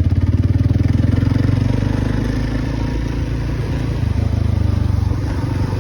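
An engine running steadily with a fast, even pulsing, loudest in the low range.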